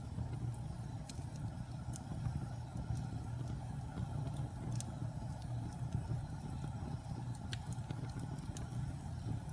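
Wood fire burning in a fireplace: a steady low rumble of the flames with occasional sharp crackles and pops from the burning wood.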